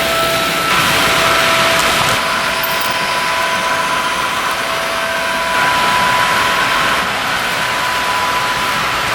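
Märklin HO model diesel locomotive running, with a steady engine-like drone and a thin whine whose pitch shifts about a second in and again about halfway through.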